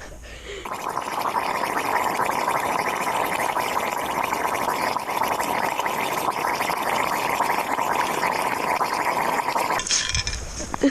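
Gas from under lake ice burning as a jet of flame at a hole in the ice: a steady hissing rush that starts under a second in and cuts off near the end.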